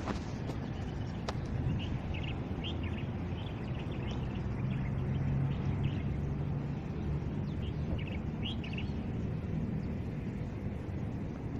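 Small birds chirping in short scattered calls over a steady low rumble of distant traffic or wind, which swells a little midway.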